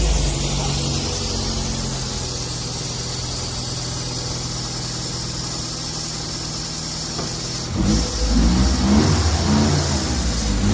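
The Austin A35's small four-cylinder engine idling steadily, then revved, louder and wavering in pitch, about eight seconds in.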